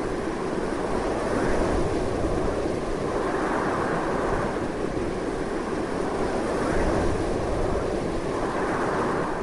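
Strong wind blowing continuously: a dense, steady rush with a low rumble underneath, swelling slightly now and then.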